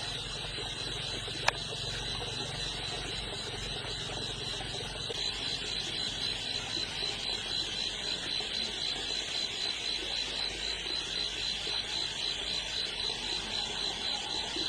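High-pitched pulsing chirr of insects, about four pulses a second, over a steady background hiss. One sharp click about one and a half seconds in.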